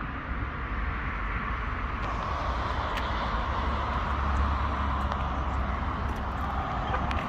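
Steady vehicle rumble with a hiss and a few faint clicks.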